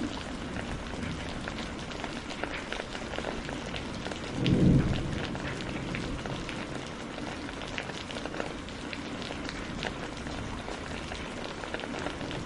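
Steady rain with many separate drops ticking, and a short, low rumble of thunder about four and a half seconds in, the loudest moment.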